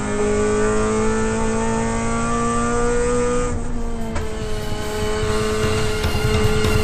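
Toyota Corolla AE92 race car's four-cylinder engine under load, heard from inside the cabin, its revs climbing slowly, dipping briefly about three and a half seconds in, then climbing again.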